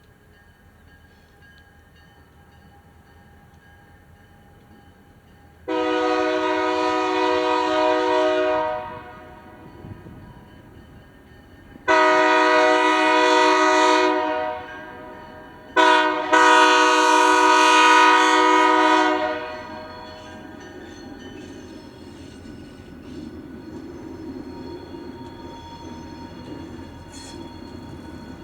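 Diesel freight locomotive air horn sounding the grade-crossing signal: two long blasts, a short one, then a long one, each a steady multi-note chord. Afterwards the train's low rumble carries on with light clicks from the rails.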